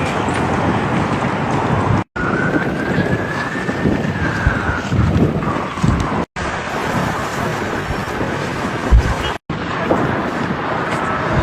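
Snowstorm wind blowing hard across the microphone, broken by three abrupt cuts, with a faint whine that rises and then falls a few seconds in.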